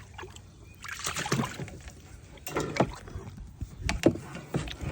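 Water from a garden hose splashing and sloshing into a trough in irregular gushes, with a few sharp knocks.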